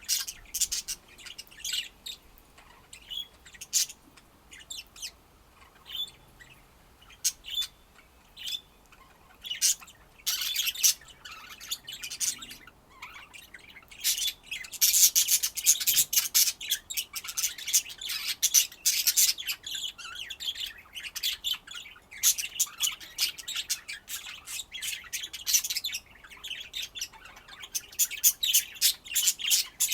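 Budgerigars chirping and chattering: scattered short high chirps at first, then a dense stretch of rapid chatter from about halfway, easing off and picking up again near the end.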